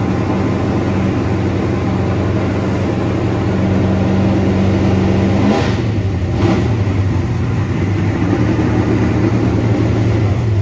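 Race car engine idling steadily, with two short blips of the throttle a little past halfway.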